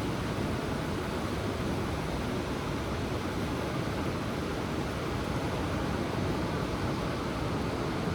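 Ocean surf washing in steadily, an even rush of noise heavy in the low end with no breaks or distinct wave crashes.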